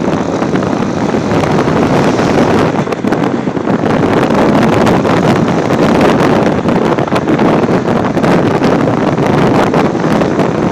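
Wind buffeting the microphone with the rumble of a moving road vehicle underneath, loud and steady throughout.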